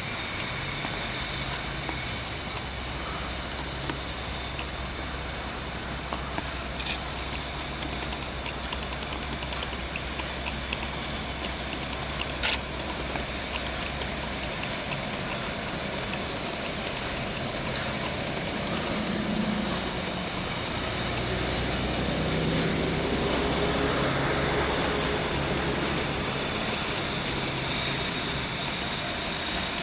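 Freight train running on the rails: a steady low rumble with a couple of sharp clanks, growing louder past the middle.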